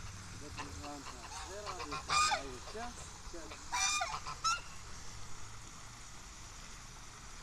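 Geese honking: two loud honks about two and four seconds in, a short one just after, and softer lower calls in between.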